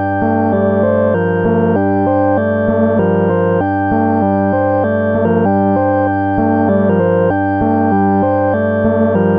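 Moog Subharmonicon analog synthesizer playing a stepping sequencer pattern tuned in just intonation: pitched notes changing every fraction of a second over a steady low drone, with a faint tick recurring about every second.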